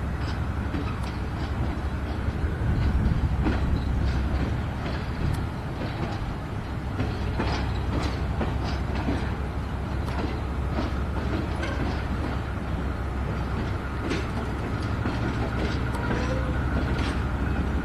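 Passenger cars rolling slowly past while being switched in a rail yard: irregular wheel clicks and clanks over the rail joints over a steady low locomotive rumble.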